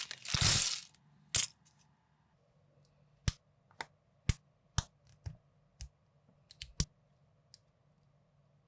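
Plastic building bricks clicking as pieces are handled and pressed together: about ten sharp, separate clicks at roughly half-second intervals, after a brief rustle of loose pieces at the start.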